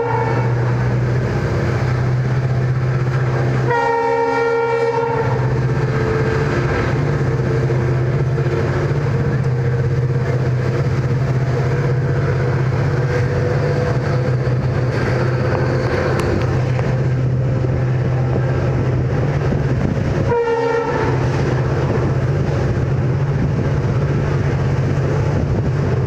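Indian Railways train with ICF coaches running at speed with a steady rumble. The locomotive horn sounds a held blast about 4 seconds in, a short toot about 20 seconds in, and another blast starting near the end.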